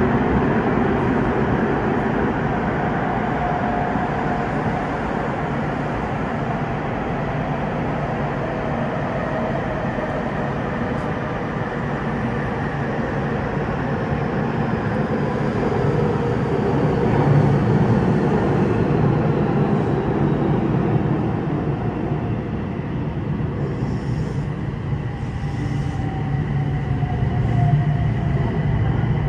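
Running noise of a Toei 6300-series train heard from inside the car in a tunnel: a steady rumble of wheels and motors, with a few faint falling tones. Near the end it enters an underground station.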